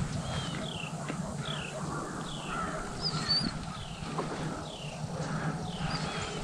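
A bird calling over and over, a short downward-sliding note a little more than once a second, with one brief warbled chirp from another bird partway through.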